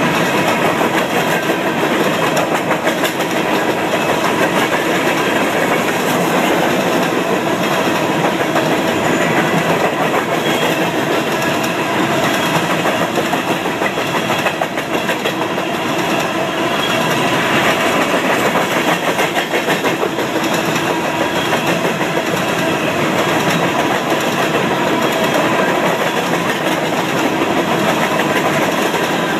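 Empty coal hopper cars of a freight train rolling past: a steady, loud rumble and rattle of wheels on rail, with many quick wheel clicks.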